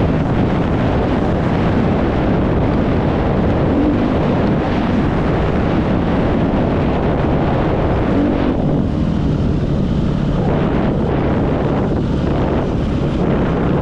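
Yamaha YZ motocross bike engine running under way, its pitch shifting with the throttle, with heavy wind noise on the microphone.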